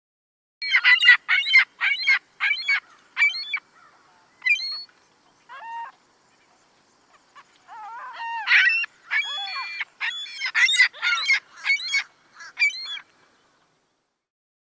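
Canada geese honking: a quick run of repeated honks, a few scattered calls, then a second, denser bout of overlapping honks.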